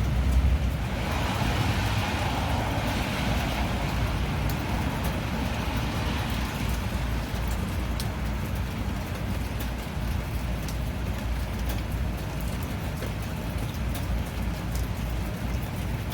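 Steady rain with a low rumble and scattered drop ticks. A rush of hiss swells about a second in and fades out over the next few seconds.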